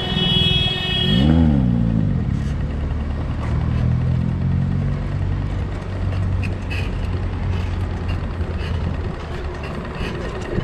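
A motor vehicle's engine close by: its pitch rises and falls about a second in, then it runs at a steady low hum for several seconds, over steady road and wind noise. A short high ringing tone sounds for about the first second.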